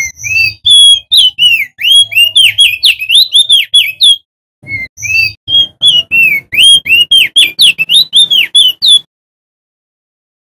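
Male opior jambul (crested white-eye) singing loudly: two fast runs of quick whistled notes sweeping up and down, with a short pause between them, stopping about a second before the end.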